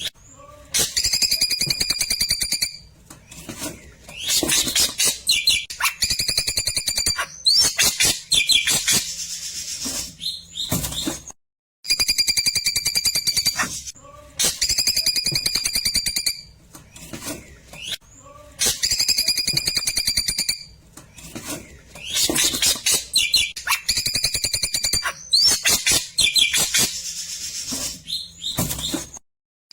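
Klewer bird singing its rapid 'tembakan' phrases: fast, clicking trills over steady high whistled notes, in bursts of a couple of seconds each with short pauses between. The sound cuts out completely about eleven seconds in, then the same run of phrases starts again.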